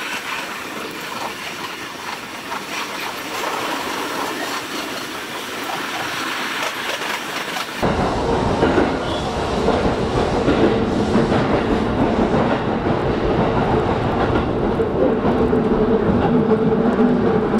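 JR East E233-0 series electric train running through a tunnel, heard from the driver's cab: continuous wheel-on-rail running noise. About eight seconds in, the sound changes abruptly, growing louder and deeper with a steady hum underneath.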